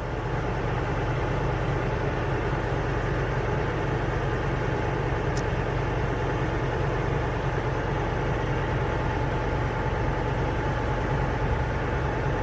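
A vehicle engine idling steadily, a low even rumble with no change in speed.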